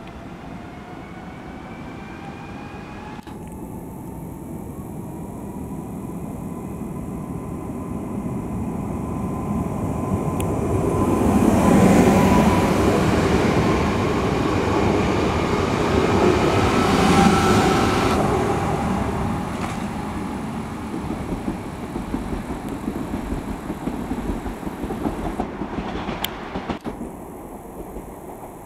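Koleje Dolnośląskie electric multiple unit pulling away from a station: a motor whine rising steadily in pitch as it accelerates, over the rumble and clatter of its wheels. The sound is loudest as the cars pass about twelve and seventeen seconds in, then fades as the train leaves.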